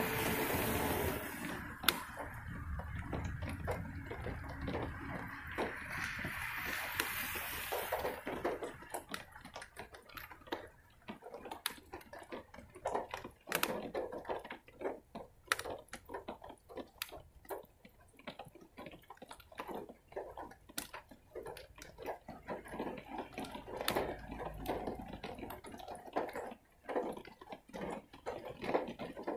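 Rain dripping, with many irregular drops tapping close by. In the first eight seconds a passing vehicle's tyres hiss on the wet road.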